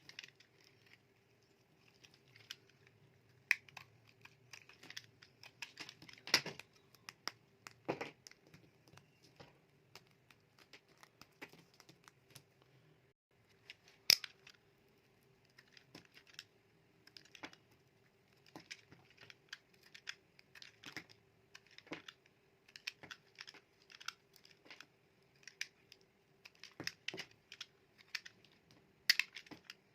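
A knife cutting into dry bars of soap, giving irregular crisp crackles and clicks, with a sharper snap about halfway through and another near the end. A faint steady hum runs underneath.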